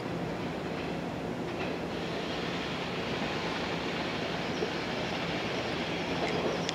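Yellow JR West electric multiple unit pulling away down the line: steady train running noise, with brief faint wheel squeals about a second and a half in and again near the end.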